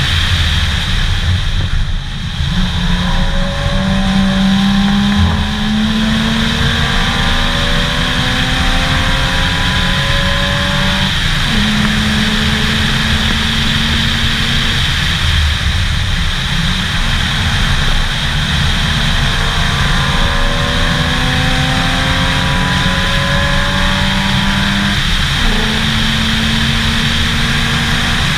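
Lexus IS300's engine pulling hard at track speed, its pitch climbing in long sweeps and dropping back sharply twice. Heavy wind and road noise run steadily underneath, as heard from inside the car.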